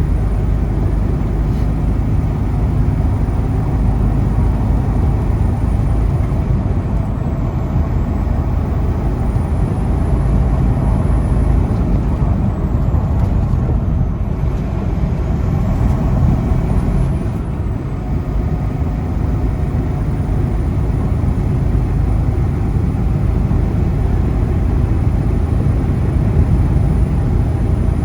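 Steady drone of a semi truck's engine and road noise heard inside the cab while cruising on the interstate.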